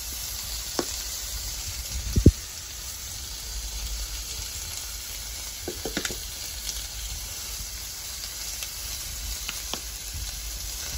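Sliced cucumber and red onion sizzling steadily in oil in a frying pan. A few light knocks sound over the sizzle, the loudest a thump about two seconds in.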